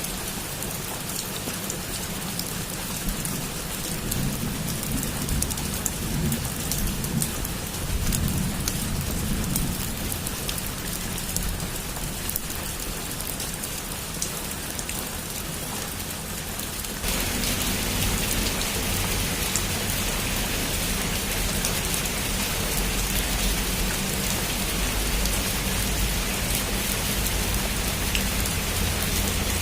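Heavy rain drumming steadily on a roof, with a low rumble underneath in the first half. About 17 seconds in, the rain suddenly gets louder and fuller, then stays steady.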